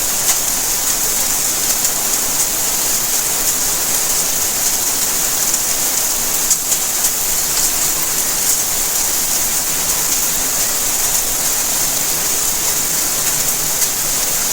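Steady rainfall: an even hiss of rain with scattered drop ticks and no pauses.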